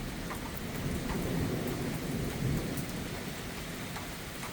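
Distant thunder rumbling, swelling about a second in and fading after a couple of seconds, over steady rain.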